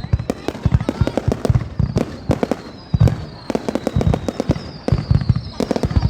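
Fireworks going off in a dense, irregular barrage: sharp bangs and pops several times a second, with heavier deep booms among them and faint high whistles sliding slowly down in pitch.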